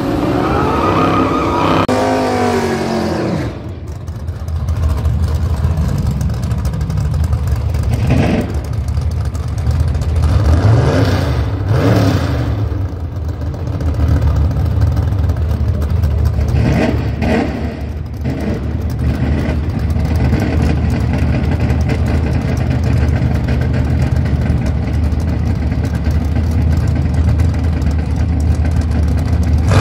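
Drag cars' engines: one revs up and falls away in the first few seconds, more short revs or passes follow in the middle, then a steady low engine rumble.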